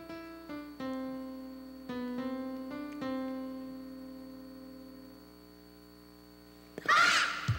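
Electric piano or keyboard music: a short run of notes, then a chord held and slowly fading. A loud, sudden burst of sound comes in near the end.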